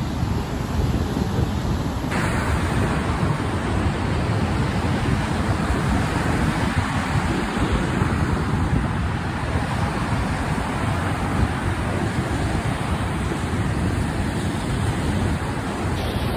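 Wind buffeting the microphone in a snowstorm: a steady rushing roar, heaviest in the low rumble, with no distinct events.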